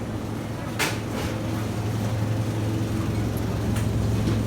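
A steady low machine hum, with a faint click a little under a second in.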